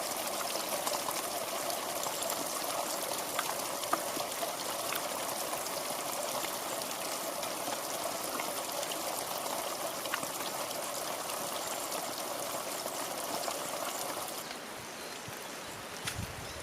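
Mountain stream babbling steadily over rocks, with small splashes and clicks in the flow. About fourteen seconds in it turns quieter and duller, and a couple of low thumps come near the end.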